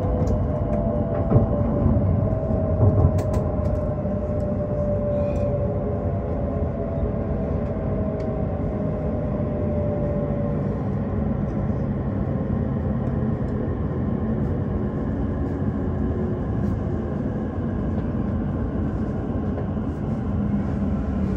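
Jōetsu Shinkansen train running, a steady rumble with a whine that slowly falls in pitch and fades over the first ten seconds or so. A few knocks come in the first three seconds.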